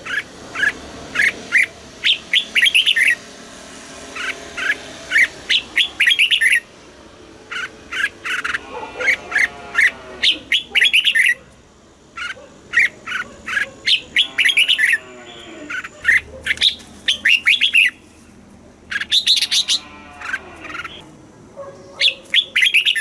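Red-whiskered bulbul singing: short phrases of quick, bright whistled notes, repeated again and again with brief pauses between them.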